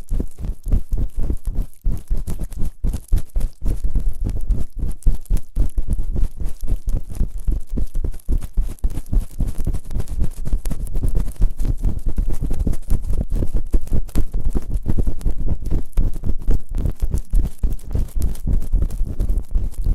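Fast, rough rubbing and scraping on both ears of a binaural ASMR microphone during ear cleaning: a dense, unbroken run of dull, low strokes many times a second.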